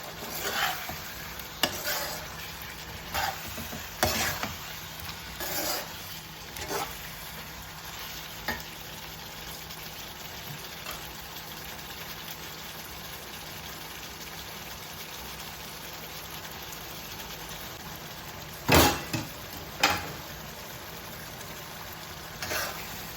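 Chicken pieces and masala sizzling steadily in oil in a kadai, with a spoon stirring and scraping in short strokes during the first several seconds. Two louder knocks of metal come about three-quarters of the way through.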